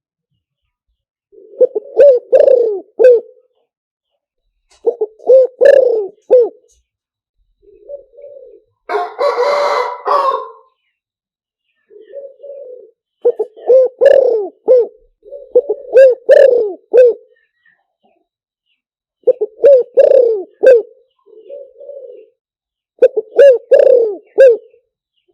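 Spotted dove cooing, a lure recording for calling wild doves: phrases of several quick coos repeated every few seconds, with softer single coos between them. About nine seconds in, one harsher, noisier call of about a second and a half stands out.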